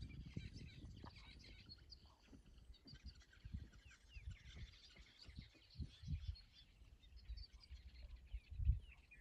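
Faint chorus of wild birds chirping and calling, many short high notes overlapping. Dull low thumps come and go beneath it, the strongest near the end.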